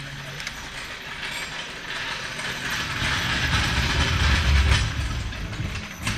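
Rapid mechanical ratcheting clicks, with a low rumble that grows louder from about halfway through.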